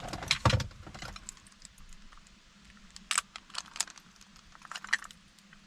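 Light clicks and rattles of a removed Ford ignition key cylinder and its lock housing being handled: a quick cluster at the start, more scattered clicks about three to four seconds in and again near the end.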